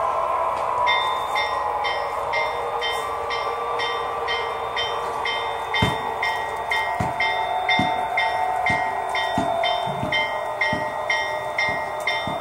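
HO scale model diesel locomotive's DCC sound decoder playing a running diesel engine. A locomotive bell starts ringing about a second in, striking about twice a second. From about six seconds, low clicks of the wheels over the track joints come, getting quicker as the train picks up speed.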